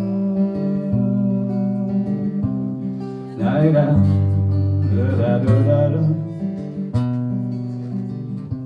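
Acoustic guitar strummed in an instrumental break of a song, chords ringing over a deep bass note that changes about once a second. Twice in the middle a short wordless vocal line wavers over the guitar, and the playing gets quieter near the end.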